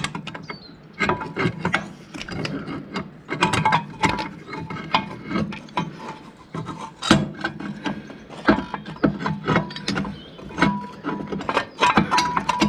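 Irregular metallic clicks, clinks and scraping of hand tools working on a 1955 Fordson Major tractor's brake pedal and latch linkage, some of the clicking ratchet-like, with brief ringing from struck metal.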